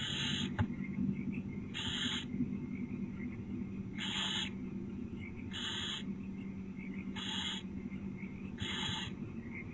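Barn owl hissing calls: six short, breathy hisses about every one and a half to two seconds, over a steady low hum, with faint high twittering between the hisses.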